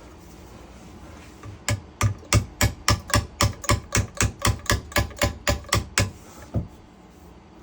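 A hammer striking in a quick, even series of about eighteen sharp knocks, roughly four a second, ending with one last blow after a short gap.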